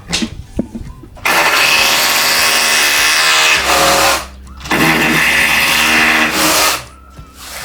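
A handheld power tool running in two bursts of about three and two seconds, with a short pause between them. A few knocks come before the first burst.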